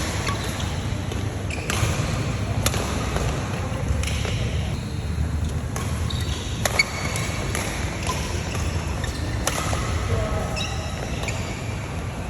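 Badminton rackets striking a shuttlecock in a rally: sharp, unevenly spaced hits a second or more apart over a steady low rumble.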